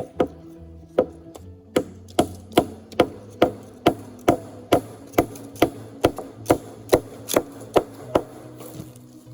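Repeated sharp blows of a hammer on wood, about two a second in an even rhythm, starting about two seconds in and stopping shortly before the end, over background music with held notes.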